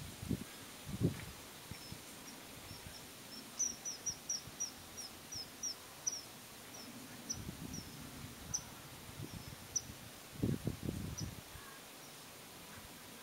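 Common kingfisher giving a run of short, high-pitched calls, about two to three a second, quickening and then spacing out. A few low bumps come through underneath, the loudest about a second in and again near the end.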